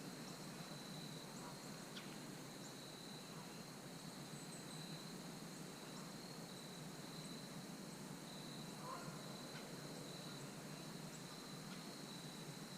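Faint outdoor insect chorus: one steady high-pitched trill that runs on without a break, with a few tiny scattered chirps.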